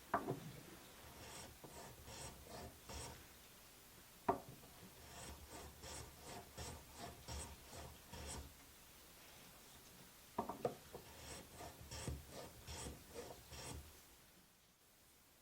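Rhythmic back-and-forth strokes of a hand tool rubbing on wood, about three a second. They come in three runs, each starting with a sharp knock.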